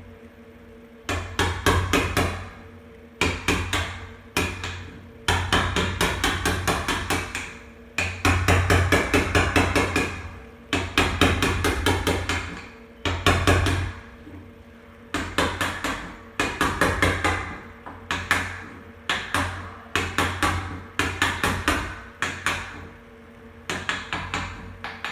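Hammer tapping a wood chisel in quick runs of about five or six strikes a second, with short pauses between runs, as the chisel cuts deeper into the wood of a door to hollow out a recess for a cup handle.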